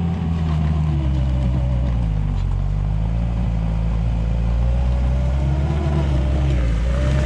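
Manitou skid steer's engine running steadily at working revs. Its pitch dips briefly about two seconds in and then comes back up, with a thinner whine above it that slowly wavers in pitch.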